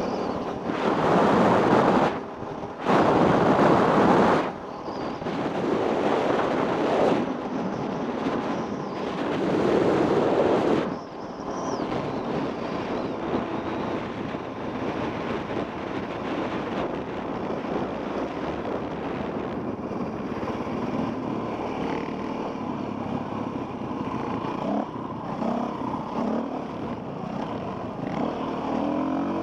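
Enduro dirt bike engine revving in loud surges with wind rushing over the microphone for the first ten seconds or so, then running more steadily and quieter.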